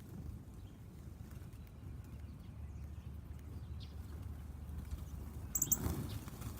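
Backyard outdoor ambience: a steady low rumble with faint small taps, then about five and a half seconds in a brief louder rustle with two short high-pitched chirps.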